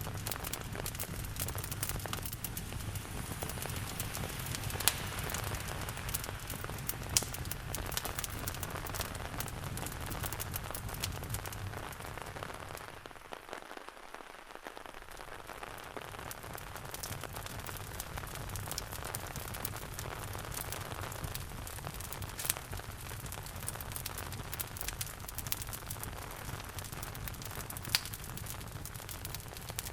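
Steady rain falling, mixed with a wood fire crackling and giving occasional sharp pops. A low rumble under the rain thins out for a moment about halfway through.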